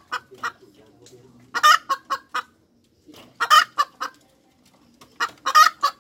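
Hen cackling in three loud phrases, each a drawn-out squawk with a few short clucks beside it. This is the 'cục tác' cackle hens give around laying an egg.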